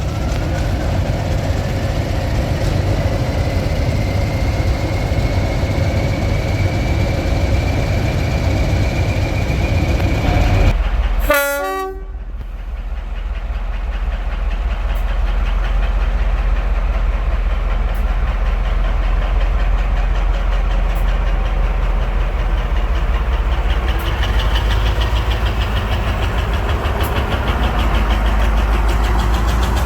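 Diesel locomotive running under load, with a whine that climbs steadily in pitch. About a third of the way in the sound breaks off suddenly, followed by a steady low engine rumble with faint clicks every few seconds.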